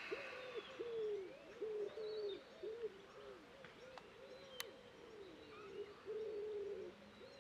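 Birds calling: a steady run of short, low, coo-like notes, each rising then falling, two or three a second, with faint higher chirps above. A single sharp click about four and a half seconds in.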